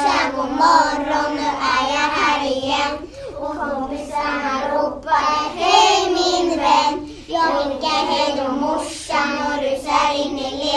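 A group of young children singing a song together in unison, with short breaks between phrases.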